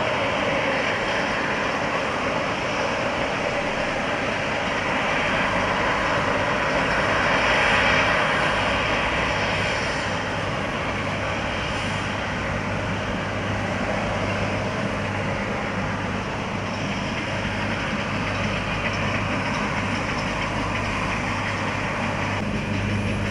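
Steady running noise of a vehicle with a constant low hum, swelling slightly about eight seconds in.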